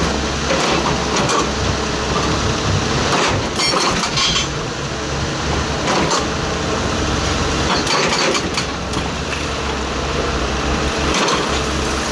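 Excavator engine running steadily, with scattered knocks and clatter over it several times.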